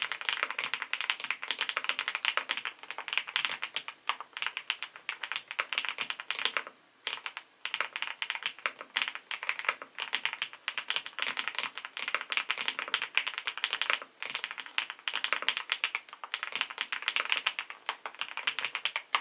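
SPM PL87W mechanical keyboard with SPM White Mongol linear switches being typed on fast: a dense run of clacking keystrokes, with short pauses about 7 and 14 seconds in.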